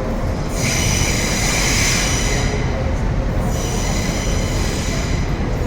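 Train wheels squealing on curved track over a steady low rumble of a passing train; the high squeal starts about half a second in, eases briefly past the middle and comes back more faintly.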